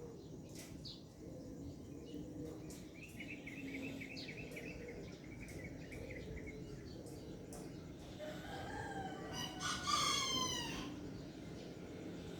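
A rooster crowing once, a long cock-a-doodle-doo of about two and a half seconds starting some eight seconds in, over a faint rapid chirping or clucking earlier on.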